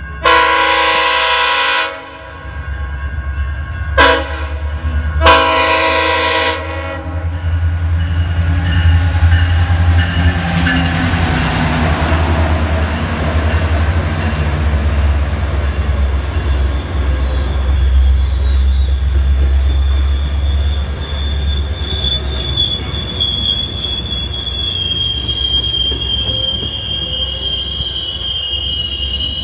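Sounder commuter train's horn blowing a long blast, a short one and another long one as it nears a grade crossing, then the low rumble of the diesel locomotive and bilevel cars passing close by. A high, steady wheel squeal comes in during the last several seconds.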